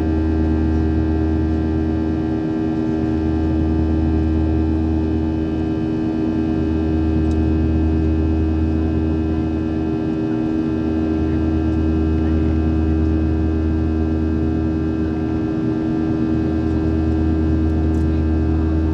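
Boeing 737 jet engines and airflow heard from inside the passenger cabin during the climb: a steady drone of many fixed tones over a low rumble that swells and fades every few seconds.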